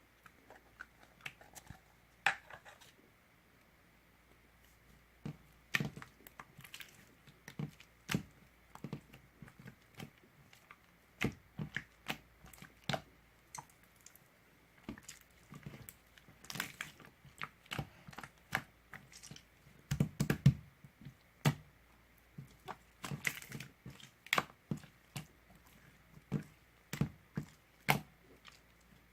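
Irregular sharp clicks, taps and crinkles of small objects being handled, one to three a second, with a louder cluster of taps about two-thirds of the way through.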